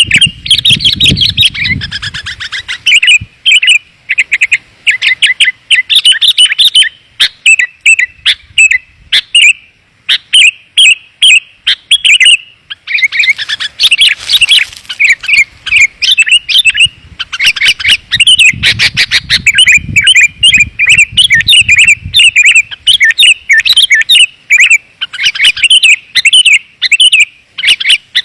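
Sooty-headed bulbuls calling in rapid, densely packed chirps, a lure call for drawing wild bulbuls in. A low rumble sits under the calls at the very start and again about two thirds of the way through.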